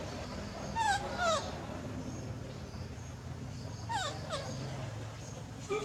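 Baby monkey whimpering: two pairs of short, high squeals that fall in pitch, about a second in and again about four seconds in.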